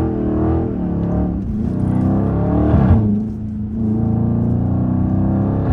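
Dodge Scat Pack's 6.4-litre HEMI V8 revving up and down as the car slides in the snow, then holding a steady note from about three seconds in, heard from inside the car.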